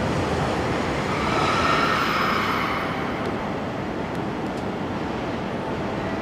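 A train moving at a station platform: a steady rumble, with a high squeal from the wheels or brakes that sets in about a second in and fades out by about three seconds.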